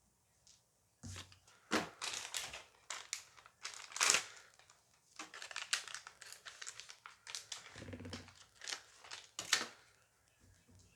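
Plastic Dice Masters booster pack wrapper being crinkled and torn open, a long run of irregular crackles and tearing that starts about a second in and dies down near the end.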